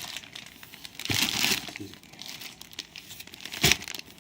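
Plastic food packaging crinkling and rustling as ration packs are handled and sorted, with a single sharp knock near the end.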